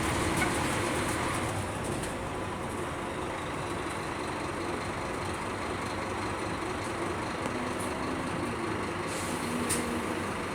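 Scania K310UB city bus running, engine and road noise heard from inside the passenger cabin, a little louder for the first couple of seconds and then steady.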